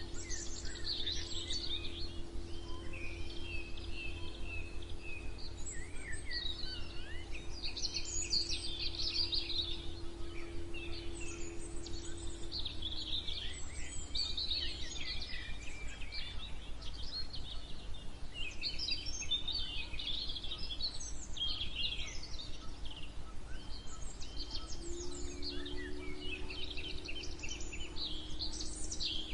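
Several birds singing and chirping at once in a continuous chorus, over a steady low background rumble. A low steady hum sits under the birds, fading out about halfway through and coming back near the end.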